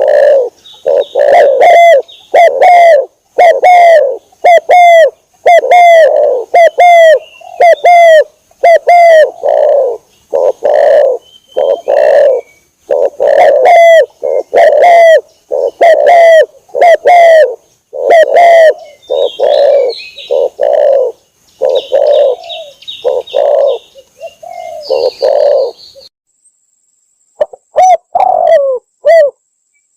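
Spotted dove (tekukur) cooing over and over, about one coo a second, as a lure call for doves. Short higher chirps of other small birds are mixed in, and a steady high-pitched whine runs underneath. The calls break off briefly near the end and then resume for a few more coos.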